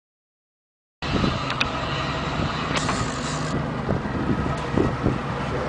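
Boat engine running steadily under way, with wind buffeting the microphone; it cuts in abruptly about a second in after silence.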